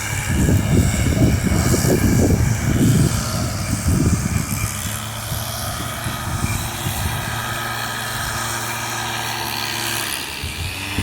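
A motor drones steadily. Gusts of wind buffet the microphone in the first few seconds.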